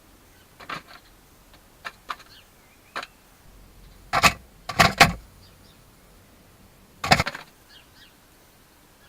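A bird foraging close to the microphone: a string of short, irregular rustles and scuffs, the loudest a cluster about four to five seconds in, with a few faint high chirps between them.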